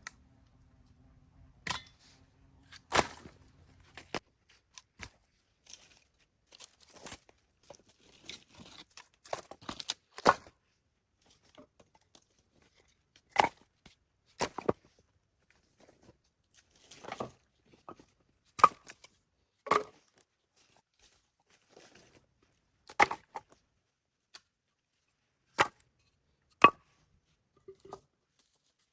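Knife chopping food on a wooden cutting board: single sharp chops at irregular intervals, a second or two apart.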